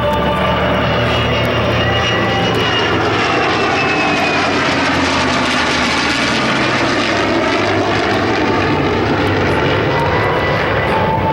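Aircraft flying past at an air show, a loud steady engine noise whose tones bend downward in pitch as it goes by.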